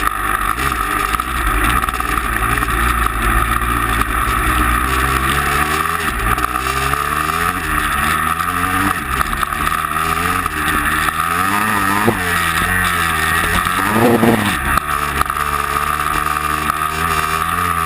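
Vehicle engine under load, its revs rising and falling again and again, with a steady high whine running over it.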